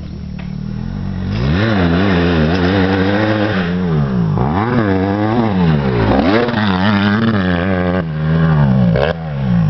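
Honda CRF150 motocross bike's single-cylinder four-stroke engine revving up and falling back again and again as it is ridden around the track, growing louder about a second in.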